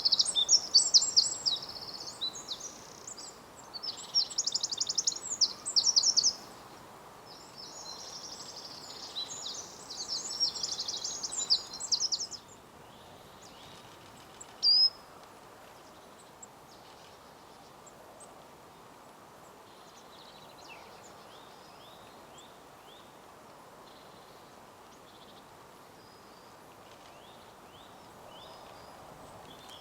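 Small birds singing fast, high trilled phrases, three or four loud bursts in the first twelve seconds, then a single short call about fifteen seconds in and faint scattered calls over a steady woodland background.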